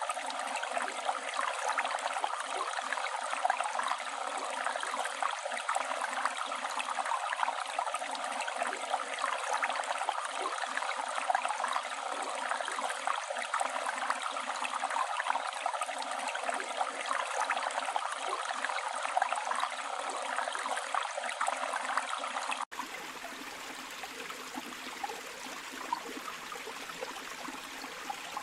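Steady sound of a flowing river's running water. About three quarters of the way through it cuts abruptly to a quieter, different stretch of running water.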